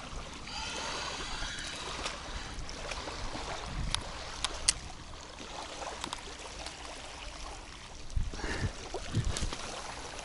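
Steady wind and water noise at the river bank, with a few sharp clicks about halfway through and some low knocks near the end.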